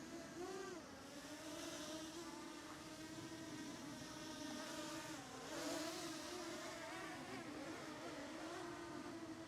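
DJI Mini 2 quadcopter's propellers buzzing as it is brought down to land in strong gusty wind, the pitch wavering up and down as the motors fight the gusts. Bursts of wind hiss about two seconds in and again between five and six seconds in.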